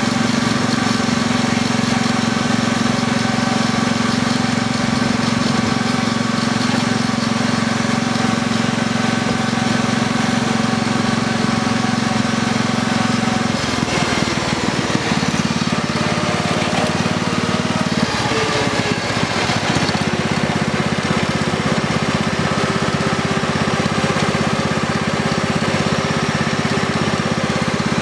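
Kubota racing lawn tractor's engine running steadily while being driven. About halfway through its note changes and wavers for a few seconds, then settles into a new steady note.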